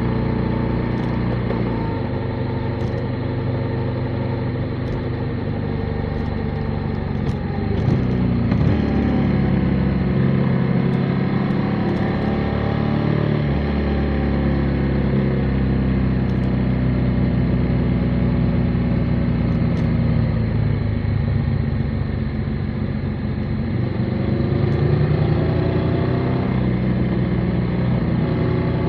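Motorcycle engine running on the move, its pitch rising and falling as the throttle opens and closes through the bends.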